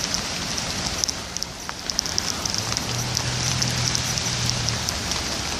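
Steady rain falling, a continuous hiss with many small raindrop ticks scattered through it.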